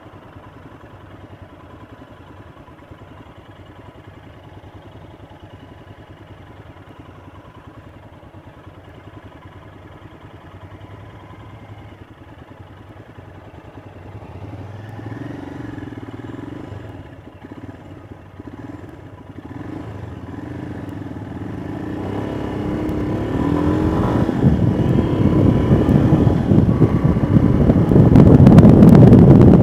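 Royal Enfield Himalayan's 411 cc single-cylinder engine running while the motorcycle is ridden, steady and fairly low at first. Over the last third the engine climbs in pitch as the bike accelerates, and a rush of wind on the microphone builds with it, much louder near the end.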